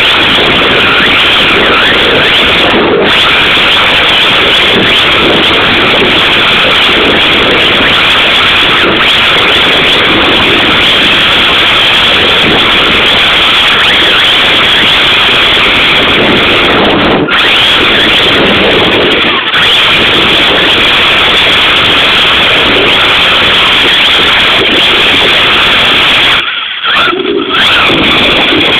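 Radio-controlled drift car running: a loud, distorted, continuous motor and drivetrain noise that drops out briefly about 17 seconds in and again near the end.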